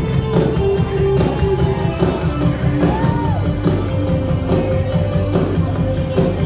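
Live rock band playing loud music: steady drum beat and heavy bass under a melody of held notes, with a rising and falling bend about three seconds in.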